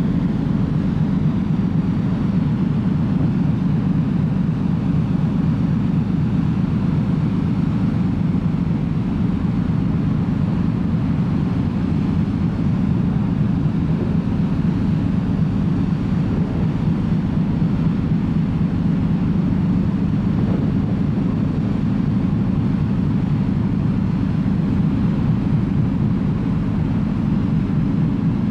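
Steady low rumble of a car ferry underway, heard on board: the ship's engines and propulsion running evenly with no change.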